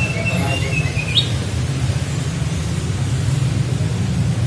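A tledekan (flycatcher) gives a thin whistled phrase in the first second, held fairly level and ending in a quick upward slur. A steady low hum runs underneath.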